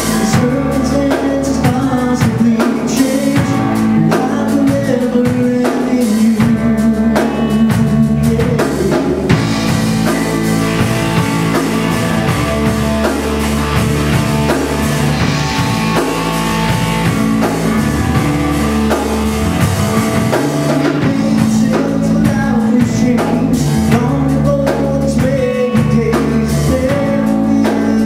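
Rock song with drum kit, guitar and a singing voice, with heavy cymbal wash through the middle.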